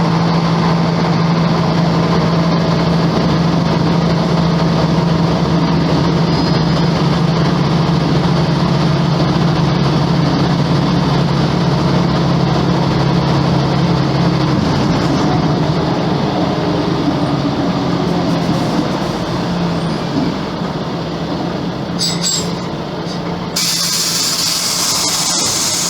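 Volvo B10M bus's diesel engine running with a steady drone that eases off after about fifteen seconds. Near the end comes a hiss of released compressed air.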